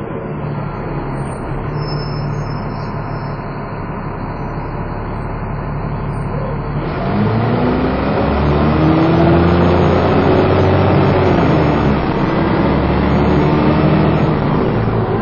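Dennis Trident 2 double-decker bus being driven hard, heard from inside: the engine runs steadily at first, then about halfway through it gets louder and the revs climb as the bus accelerates, holding high to the end with the bus's characteristic 'hoover' whine.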